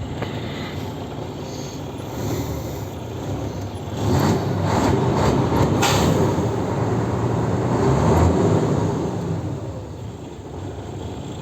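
MAN F2000 truck's D2866LF31 six-cylinder diesel engine running. About four seconds in it is revved up and held for about five seconds, then drops back toward idle near the end.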